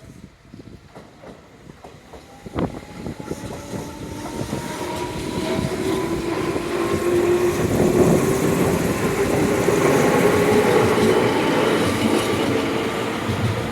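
Tobu Urban Park Line electric train set 81114F running on the rails: wheels click over rail joints at first, then the running noise grows much louder and holds, with a motor whine rising slowly in pitch.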